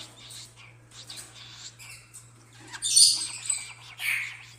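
A pet parrot giving a few short, shrill squawks, the loudest about three seconds in.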